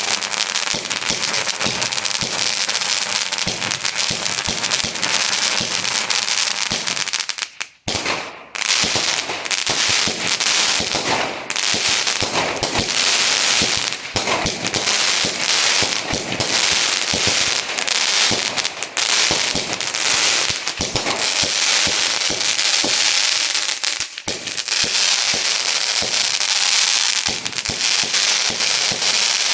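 Lightning Force firework cake, a multi-shot display in a box, firing: a dense, continuous stream of bangs and crackling, with a brief break about eight seconds in before it carries on.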